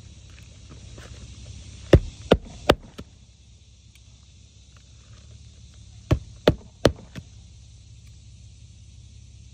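Roofing nails being driven into an asphalt shingle: two runs of three sharp strikes about a third of a second apart, the first about two seconds in and the second about six seconds in. A steady low hum runs underneath.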